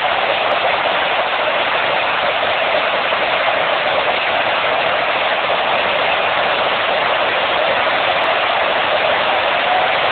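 Steady, dense roar of a fireworks finale barrage, the bursts merging into one continuous noise with no single bang standing out.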